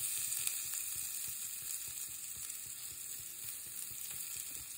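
Ginger and garlic paste sizzling in a little hot oil with cumin and asafoetida in a pan: a steady frying hiss.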